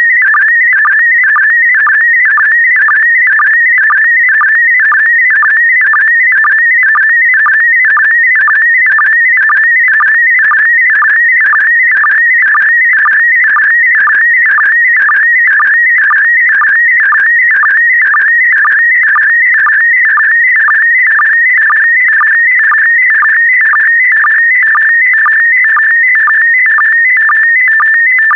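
Slow-scan television (SSTV) signal in PD120 mode sending an image line by line: a warbling electronic tone around 2 kHz, broken by a short lower sync pulse about twice a second.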